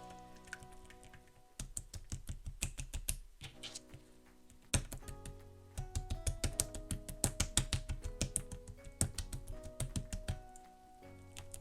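Slime being squeezed and pressed, giving rapid runs of sharp clicks and pops over soft background music. The clicks come in a short run near the start, then a longer run from about five seconds in that stops about a second before the end.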